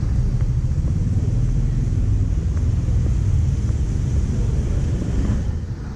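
Steady low rumble of street traffic, starting abruptly and dropping away near the end.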